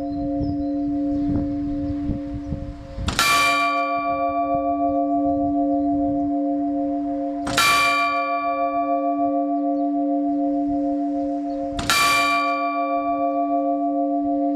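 Bronze church bell, cast in 1596 with the strike note d2, swinging and struck by its clapper three times, about every four and a half seconds. Each stroke leaves a long, slowly beating hum that carries on between the strokes.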